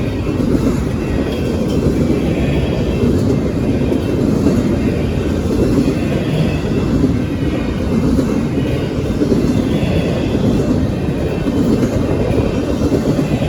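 Freight train cars rolling past: a steady rumble of steel wheels on rail, with a faint higher clatter recurring every second or two.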